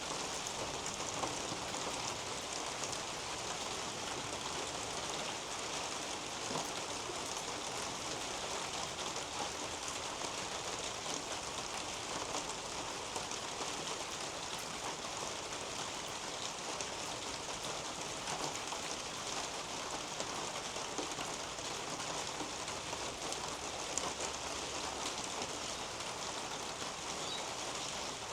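Steady rain falling on a roof and on garden leaves, with many small scattered drop patters.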